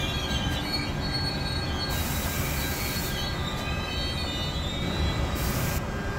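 Train wheels squealing on the rails: several thin, steady high-pitched tones over a continuous low rumble. Two short bursts of hiss come about two seconds in and again near the end.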